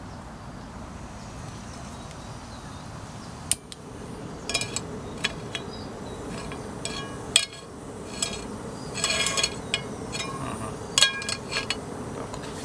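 Metal clinks and knocks as a frying pan is set on a portable gas burner: a sharp knock about a third of the way in, then a scatter of clinks, over a steady low rushing background.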